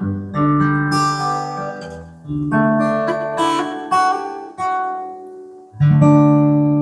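Acoustic guitar playing the song's closing bars: a series of strummed chords, each left to ring and fade. A last chord, struck about six seconds in, is held and rings out.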